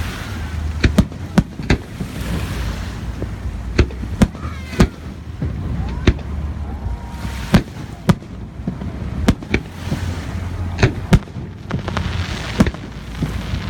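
Fireworks display: a string of sharp bangs from bursting aerial shells at irregular intervals, some close together, over a steady low rumble.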